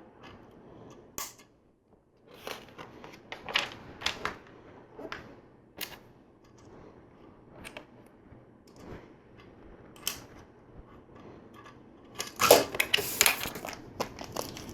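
LEGO plastic pieces being handled and pressed together: scattered sharp clicks and taps, with a dense run of clicking and rustling about twelve seconds in.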